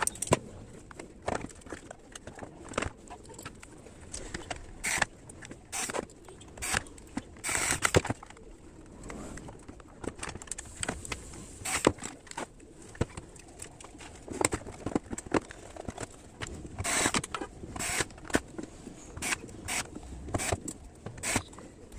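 Irregular clicks, taps and knocks of a small speaker unit being reassembled by hand: parts, screws and the plastic cabinet being handled and fitted back together.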